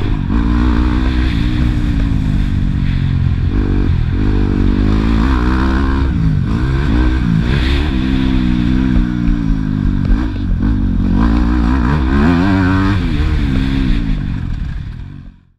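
Four-stroke 250 cc Yamaha YZ250F motocross bike engine revving hard and easing off again and again, its pitch rising and dropping with the throttle and gear changes, then fading out near the end.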